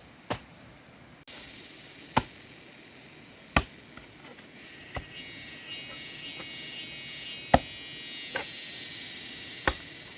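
Sharp chopping strikes, seven in all at uneven intervals of one to two seconds. Insects buzz in the background from about halfway through.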